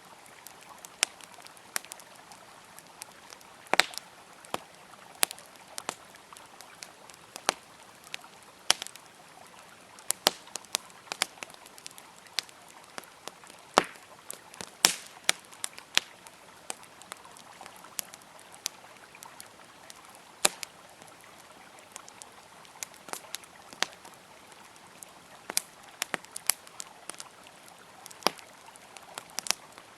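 Campfire wood crackling and popping in sharp, irregular snaps, some louder than others, over the steady rush of a flowing river.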